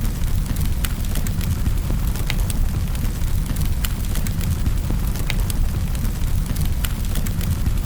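Wood fire burning in a fireplace: a steady low rumble of the flames with irregular sharp crackles and pops of the burning wood, several a second.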